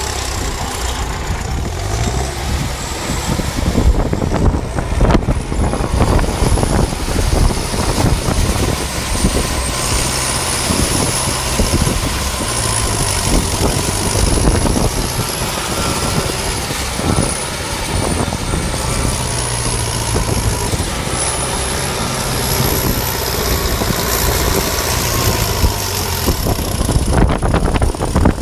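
DT-75 crawler tractor's diesel engine running hard under load on loose ground, with repeated knocks and a high whine that wavers up and down in pitch.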